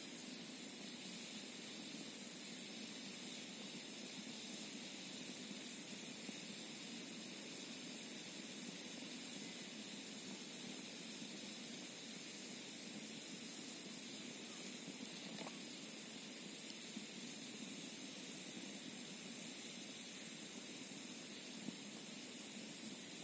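Steady rushing hiss of a flowing mountain stream, with a campfire giving only a few faint pops.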